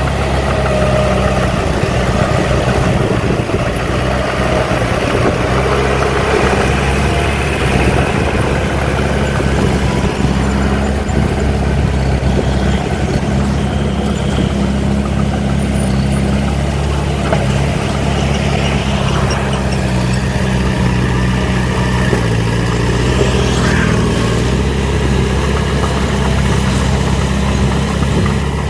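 Heavy diesel engine of earthmoving machinery (dump truck or bulldozer) running steadily at a low, even engine note, with small shifts in pitch about three-quarters of the way through.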